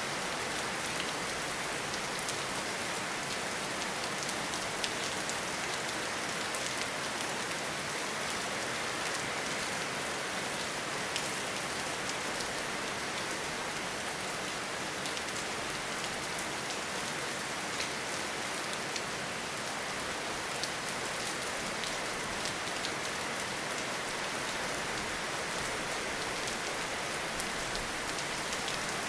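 Steady heavy rainfall: an even hiss with scattered sharp ticks of individual drops.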